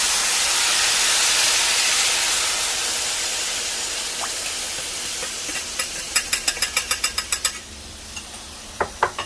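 Cornstarch sauce poured into a hot frying pan of fried chicken, sizzling loudly at first with a steamy hiss that slowly dies down. About six seconds in, a rapid run of a dozen or so clicks is heard, then a couple of sharp ticks near the end.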